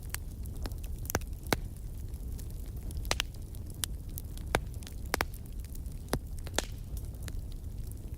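Wood fire crackling: irregular sharp snaps and pops over a steady low rumble of the burning logs.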